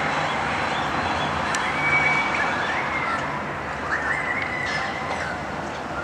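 Birds calling in a tree: a string of whistled notes that slide up and down, with a couple of longer held notes, over a steady background rush.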